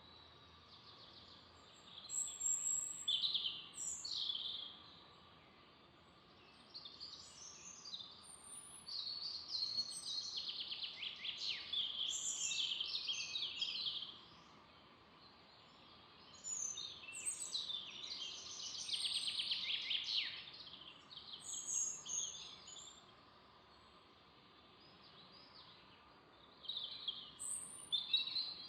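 Songbirds singing and chirping in several bouts of a few seconds each, over a steady faint background hiss.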